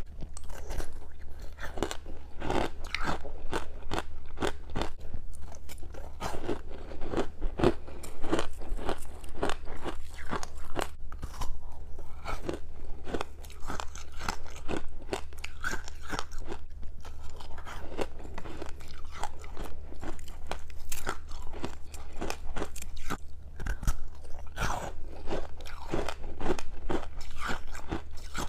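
Freezer frost soaked in passionfruit juice being bitten and chewed close to the microphone: continuous, irregular crunching, over a steady low hum.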